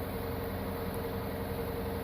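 Air blower running steadily with a rushing hiss and a constant motor whine, blowing air through a rinsed EVAP charcoal canister to force out the wash water.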